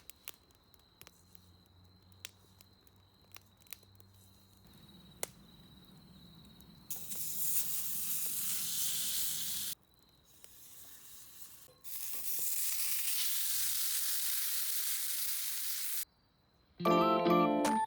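Sirloin steak sizzling on a hot surface over a campfire: two loud stretches of steady hiss, after a few seconds of faint scattered crackles. A short musical jingle comes in near the end.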